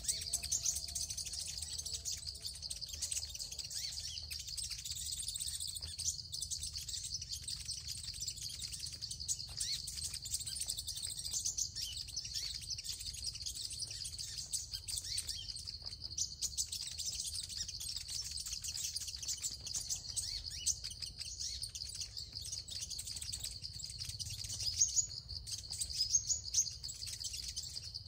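High-pitched bird chirping, rapid and unbroken, with a few louder chirps near the end.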